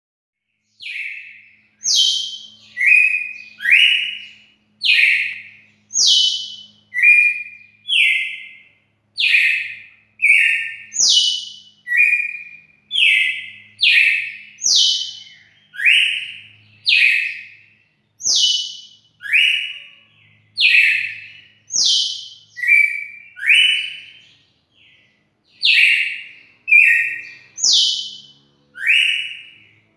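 Red-cowled cardinal (galo-de-campina) singing: a long run of clear whistled notes, about one a second, alternating between higher and lower notes.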